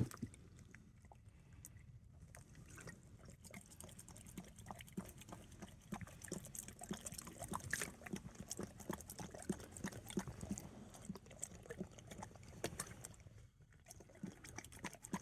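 A dog lapping water in quick, irregular wet laps.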